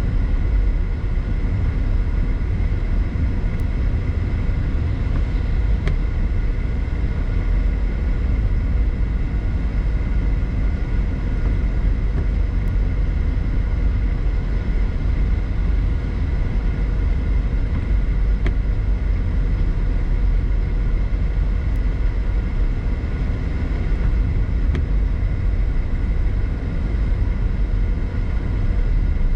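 A car driving steadily, heard from inside the cabin: an even low road and engine rumble with a faint steady whine above it.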